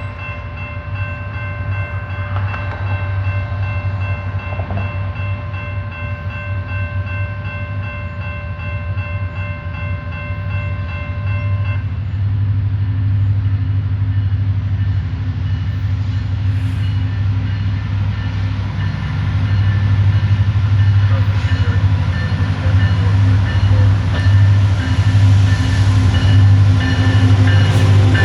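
Diesel locomotive of a freight train approaching, its low engine rumble growing louder. The horn sounds one steady note for about the first twelve seconds, then stops.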